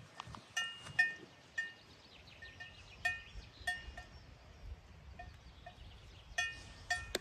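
Livestock bells clanking at irregular intervals, single ringing clanks and short clusters, as animals wearing them move about.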